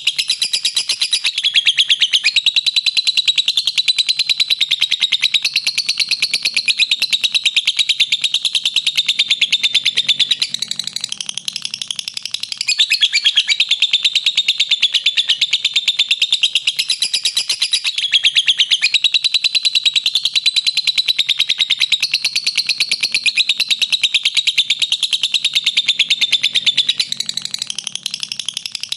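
Lovebird giving a long, unbroken ngekek: a shrill, very rapid chattering trill of many notes a second, with brief dips about eleven seconds in and near the end.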